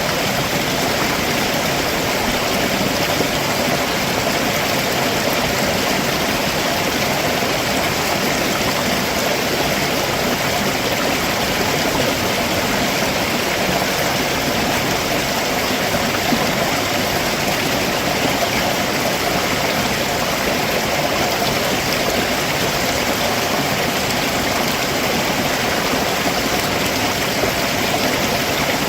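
Stream water rushing and splashing steadily over rocks below a waterfall.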